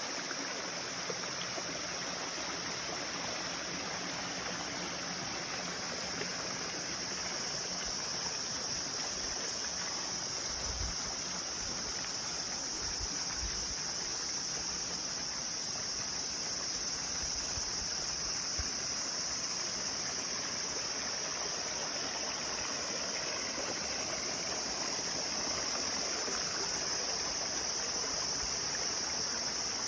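Flowing water with a steady high-pitched insect drone over it.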